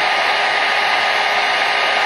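Hair dryer running continuously: a steady, even rush of blown air with a faint motor hum beneath it.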